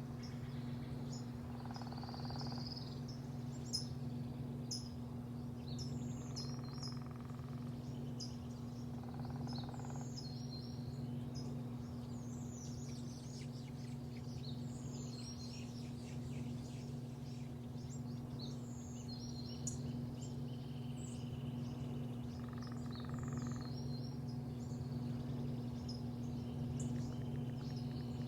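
Small birds chirping and trilling over a steady low mechanical hum.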